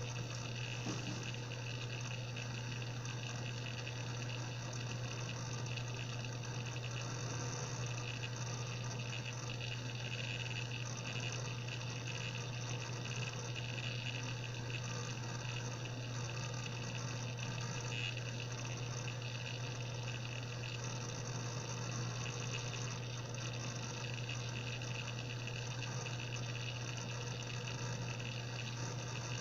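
Seagate Barracuda 7200.7 80 GB hard drive (ST380819AS) spinning with a steady low hum and a rushing, whirring hiss. It is an abnormal running noise, which the owner calls a bad sound.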